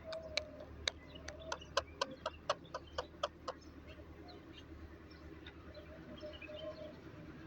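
A bird giving about a dozen short, sharp calls in quick succession, roughly three a second, in the first half, followed by fainter high chirps.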